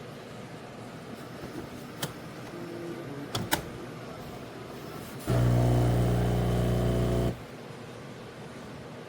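Philips 3200 Series espresso machine giving a few clicks, then running with a loud, steady mechanical hum for about two seconds before cutting off abruptly.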